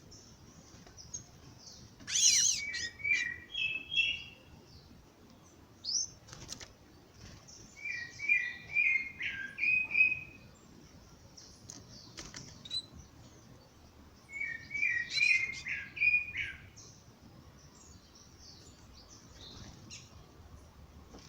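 Birds singing: one bird repeats a song phrase of five or six short clear notes three times, about every six seconds, over fainter high-pitched twittering from other birds.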